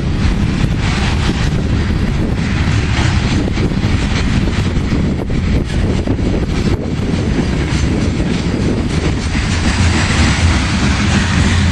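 Freight cars of a coal train rolling past, a steady loud rumble of steel wheels on the rails with faint irregular clicks.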